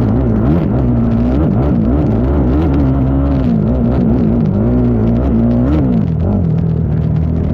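ATV engine being ridden hard, its pitch rising and falling with the throttle over and over, then settling lower and steadier near the end. Scattered clatter runs along with it.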